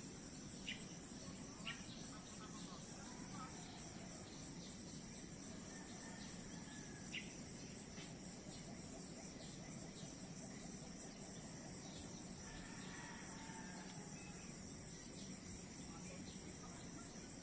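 Steady, high-pitched chorus of insects such as crickets, trilling on without a break, with a few brief higher chirps over it.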